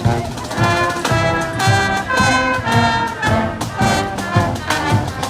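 Brass band playing a march, trumpets and trombones over a steady low beat about twice a second.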